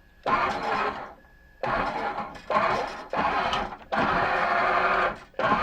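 Omnibot 2000 robot's electric drive motors and plastic gearbox whirring in several short bursts with brief pauses, as the robot is driven by remote control after a gear change.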